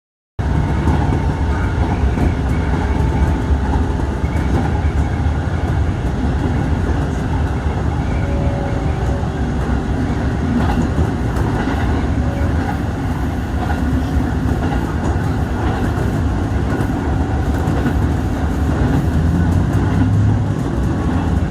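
JR rapid train running at steady speed: a continuous deep rumble of wheels on rail with faint clicks.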